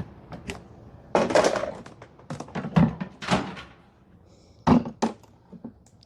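Supplies and equipment being unloaded and set down by hand: a series of irregular thunks and knocks, with a short scraping rustle about a second in.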